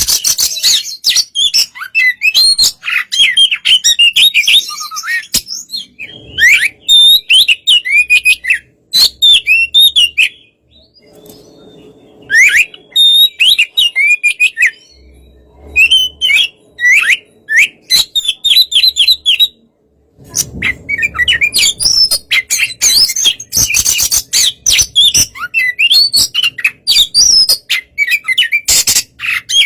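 Oriental magpie-robin singing loudly: fast, varied runs of sweet whistles, rising and falling slurs and harsh chattering notes. The song pauses briefly twice, about ten seconds in and again near twenty seconds.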